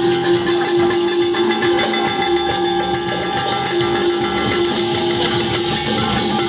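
Rock band playing live and loud, with one note held steady throughout over a constant high shimmer of percussion.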